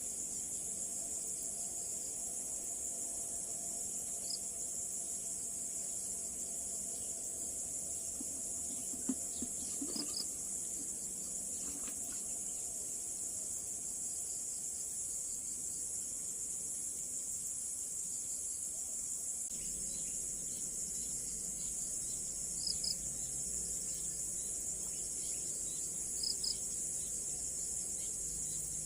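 A steady, high-pitched chorus of insects such as crickets, with a short double chirp heard about five times, every few seconds.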